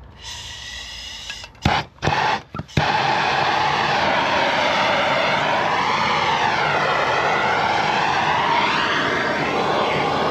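Water turned on at a faucet: a weaker rush, a few sputtering spurts about two seconds in, then a strong steady gush of running water.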